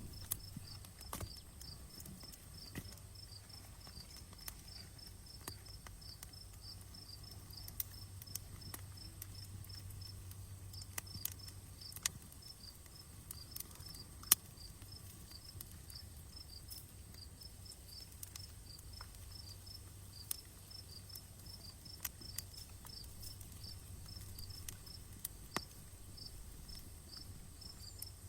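Wood fire crackling with irregular sharp pops, one much louder pop about halfway through, over a low steady rumble. Insects chirp in a fast, even rhythm throughout.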